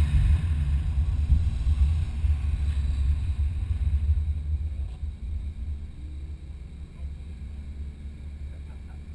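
A 2004 Nissan 350Z's VQ35DE V6 and a low rumble, fading steadily as the car slows to a crawl after its run.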